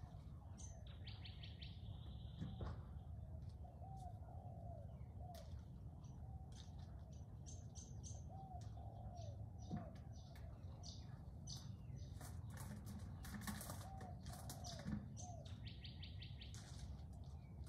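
Outdoor birdsong: several birds chirping, with two short high trills, one near the start and one near the end, and a lower arched call repeated at intervals, over a steady low rumble.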